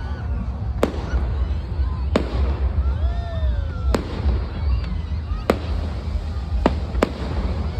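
Fireworks bursting overhead: about six sharp bangs, a second or so apart, over a steady low rumble.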